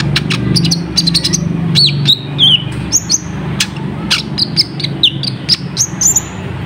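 Kolibri ninja sunbird calling: a rapid, irregular series of sharp, high chirps and quick down-slurred notes, over a steady low hum.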